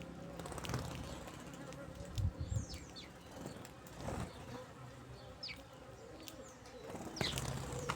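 Birds feeding: several brief high chirps that fall in pitch, with fluttering wings and a few low thumps about two seconds in.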